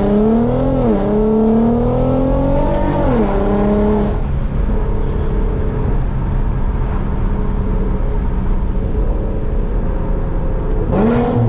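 Infiniti Q50's engine and loud exhaust under hard acceleration. The revs climb and drop sharply at quick upshifts about a second in and about three seconds in, then settle into a steady cruise, and start climbing again near the end.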